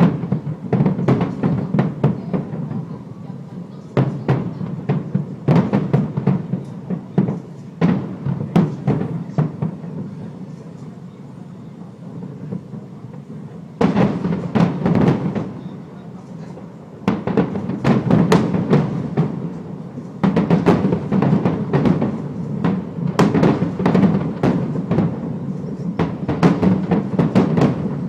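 Fireworks shells bursting in rapid succession, a dense run of booms with crackle and rolling echo. The bursts thin out for a few seconds around the middle, then come thick again.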